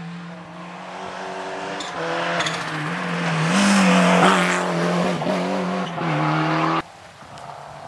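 Rally car engine at high revs as the car approaches and passes close by, loudest about four seconds in, its note rising and dipping as it drives through. The sound cuts off abruptly near the end.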